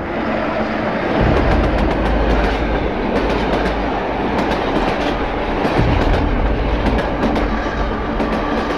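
Passenger train running, heard from inside the carriage: a steady rumble of wheels on rails with irregular clicks and clacks from the track.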